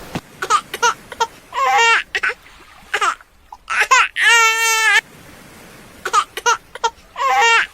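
High-pitched cries: a string of short calls, then one long wavering cry about four seconds in, then more short calls near the end.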